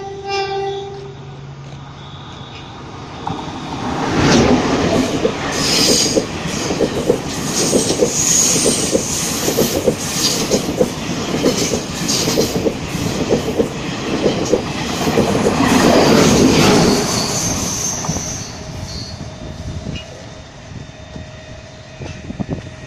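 Taiwan Railways E1000 push-pull Tze-Chiang express running through the station at speed. A brief horn note sounds at the start. The carriages then go by loud and close, their wheels clicking in a steady rhythm over the rail joints with some high wheel squeal, and the noise fades near the end.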